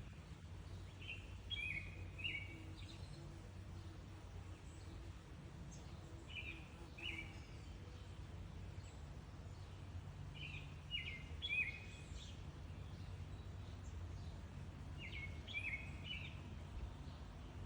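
A bird calling in short phrases of a few quick chirps, each phrase repeated about every four seconds, over a steady low rumble.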